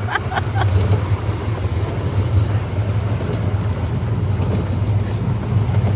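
Amusement-park miniature train running, heard from aboard: a steady low drone with the rumble of the wheels on the track.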